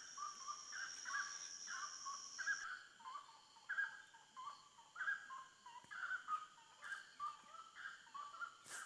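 A bird calling over and over in short two-note phrases that step down in pitch, roughly two calls a second, over a steady high buzz of insects. The highest insect tone cuts off about three seconds in.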